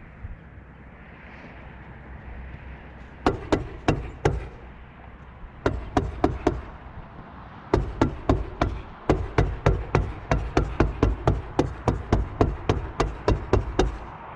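Hammer strikes fastening roofing felt to a barn roof: a few blows about three seconds in and a few more a little later, then a steady run of about three blows a second until near the end.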